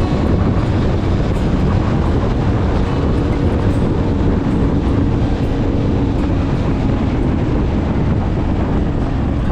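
1972 Yamaha DT-1F's 250 cc two-stroke single-cylinder engine running steadily.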